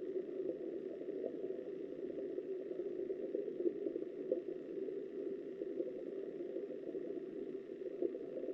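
Flowing river water heard underwater through a submerged camera: a steady, muffled rushing.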